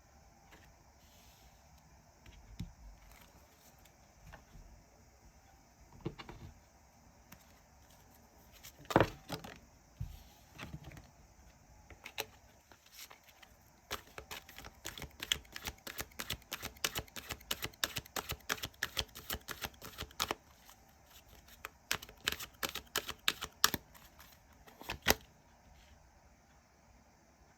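Tarot cards being handled and shuffled: a few separate taps and slaps of cards, then two runs of rapid clicking card shuffles, the first starting about halfway through.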